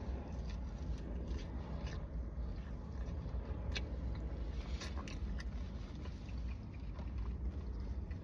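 A person chewing a bite of pepperoni pizza close to the microphone, with small wet clicks and crackles, over a steady low rumble.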